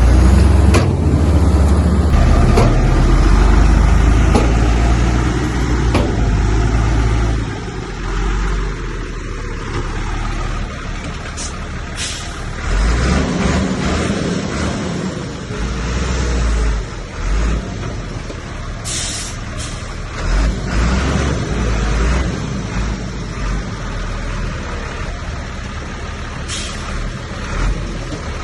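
Heavy diesel earthmoving machinery running with a deep rumble, loudest in the first several seconds, then lower and uneven. A few short hisses come through later on.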